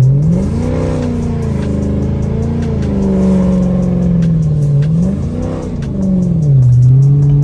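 Dodge Charger's engine revving under hard throttle during a wheelspinning slide: the revs climb about half a second in and hold with small wobbles, dip near five seconds, climb again, then fall back near the end.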